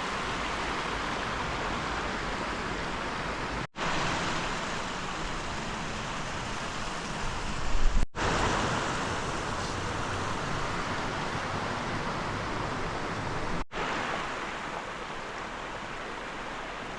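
River water rushing steadily over stones, a continuous even sound that cuts out for an instant three times.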